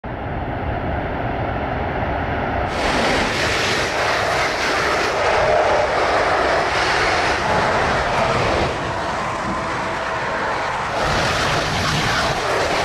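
High-speed electric trains passing at speed: a loud, steady rushing noise. It changes abruptly about three seconds in, turning brighter, and again about eleven seconds in.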